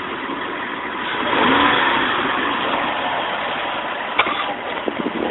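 Car engine running, getting louder about a second in, with a sharp click about four seconds in.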